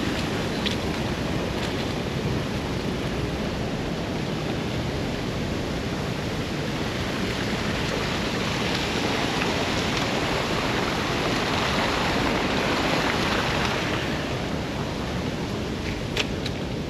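Wind rushing over a chest-mounted action camera's microphone while cycling: a steady noise that swells a little past the middle, with a few light clicks near the end.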